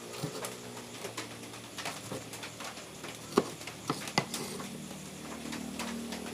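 Kitchen knife chopping ingredients on a cutting board: irregular sharp knocks, the loudest about three and a half seconds in and again just after four seconds.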